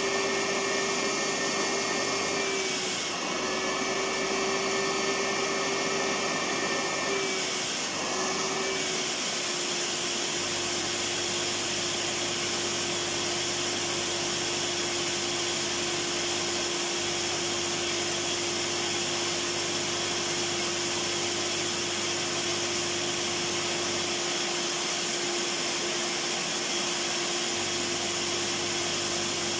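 Vacuum cleaner motor running continuously: a steady whooshing whir with a constant hum. The pitch wavers and dips briefly twice in the first nine seconds, then holds perfectly steady.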